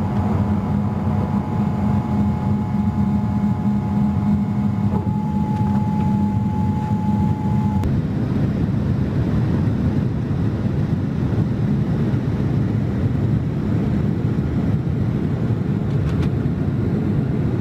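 Boeing 787-8 jet engines running at high power, heard from the economy cabin as a loud, steady rumble with a thin whine over it. About eight seconds in, the whine drops out at a cut and the steady rushing noise continues.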